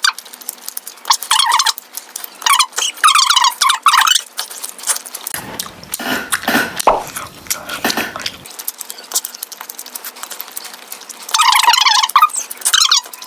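Bubble gum being chewed, sped up five times, so the mouth sounds come out as high, squeaky chirps in several short bursts.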